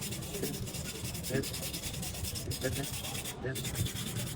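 Steady, rapid scraping or rubbing, many strokes a second, over a low hum.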